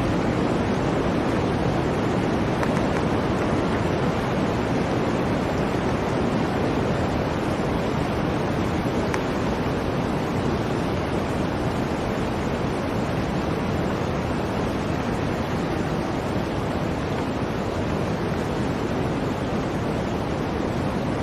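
Blizzard wind blowing steadily, an even, deep rush of noise that holds at the same level throughout.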